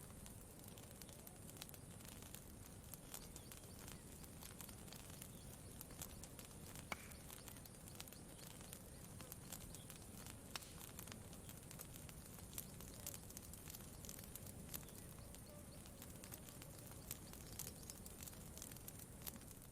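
Campfire crackling faintly: scattered small pops and snaps over a low steady rumble.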